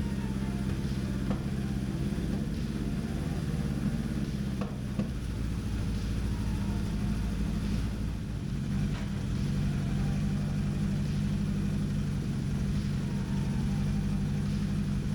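Suzuki GS1000's air-cooled inline-four engine running steadily after being fired up on freshly cleaned carburettors, a little louder in the second half. The owner finds the carbs out of sync, with an intake leak.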